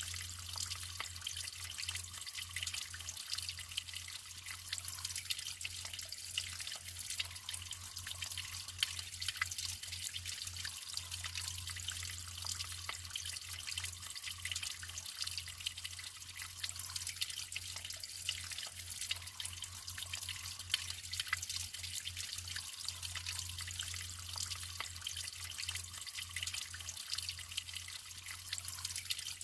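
Natural flowing water trickling and splashing steadily, full of small droplet patters, with a faint low hum underneath.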